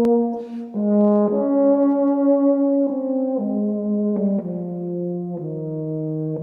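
Slow brass melody, French horn-like, played as a series of held notes that step lower, ending on a long sustained low note.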